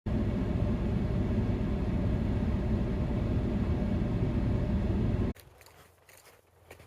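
Steady rumble of a vehicle driving, heaviest in the low end, which cuts off abruptly about five seconds in. Faint scattered clicks follow.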